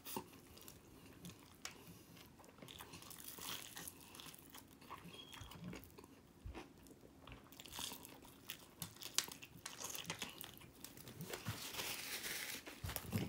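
Close-up chewing and biting of fried chicken wings: crunching of the breading and small wet mouth clicks as meat is stripped off the bones and eaten. Near the end, a paper napkin rustles as the mouth and hands are wiped.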